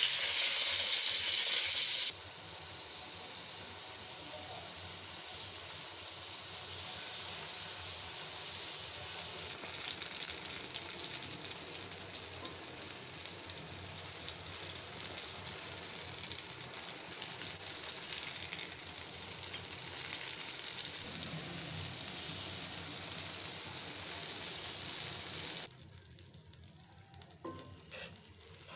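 Eggplant slices shallow-frying in hot oil in a kadai, a steady sizzle. It is loudest in the first two seconds, when a slice has just gone into the oil, and drops suddenly to a quieter sizzle near the end.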